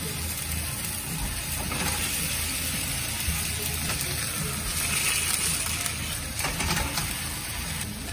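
Whole onions frying in a pan over a gas burner: a steady sizzle and hiss, a little louder around the middle.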